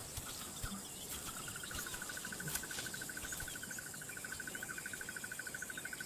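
An insect calling in a steady, rapidly pulsing trill that starts about a second in, over a faint high hiss of other bush insects.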